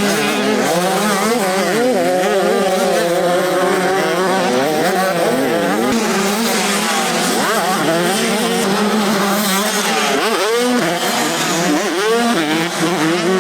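Several motocross bikes racing, their engines revving up and down with overlapping rising and falling pitches.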